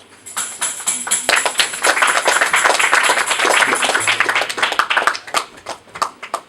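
A congregation applauding: clapping builds quickly, holds dense for a few seconds, then thins to scattered claps that die away near the end. A steady high jingle sounds over the clapping for about the first four seconds.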